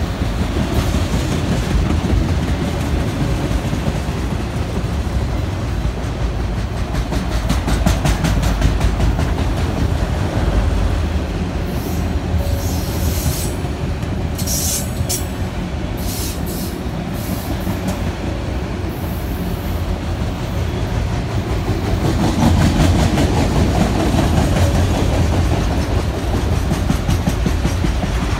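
Freight train of autorack cars rolling past at close range: a steady rumble of steel wheels with dense clicking over the rail joints and a few brief high squeals about halfway through, swelling louder near the end.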